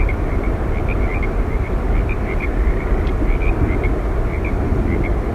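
Yosemite Falls: a waterfall's steady rush of falling water, an even noise heavy in the low end. Many short, faint chirps sound irregularly over it.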